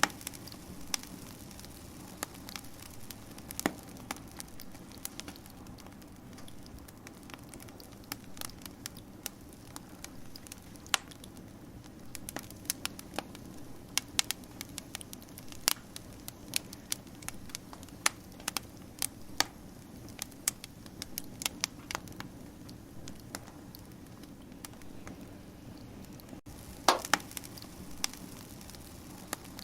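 Wood fire burning: a steady low rush with irregular sharp crackles and pops throughout, and a cluster of louder pops near the end.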